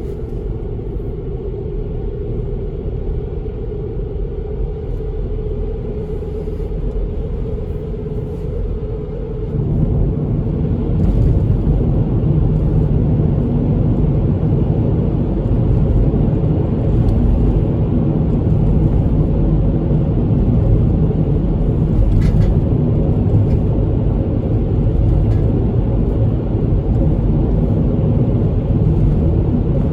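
A steady low rumble that grows louder about ten seconds in.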